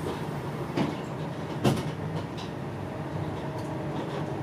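Inside an InterCity 125 (HST) passenger coach running at speed: a steady rumble of wheels on rail, with two sharp knocks about a second apart, the second the louder.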